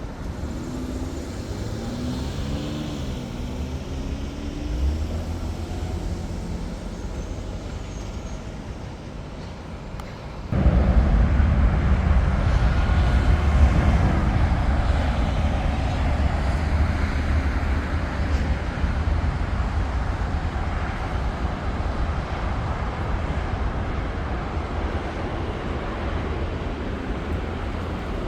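Jet airliner engine noise. It starts as a moderate rumble with a few low tones sliding in pitch, then about ten seconds in it jumps abruptly to a louder, deeper steady rumble that slowly eases off.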